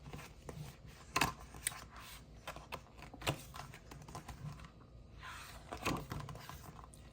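Quiet handling of a picture book: scattered small clicks and taps, with a soft paper rustle about five seconds in as a page is turned.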